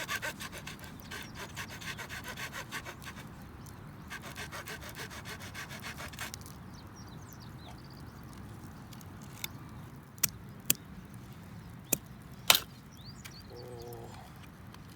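Hand saw cutting through firewood in rapid back-and-forth strokes, in two bouts that stop about six seconds in. A few sharp cracks follow later.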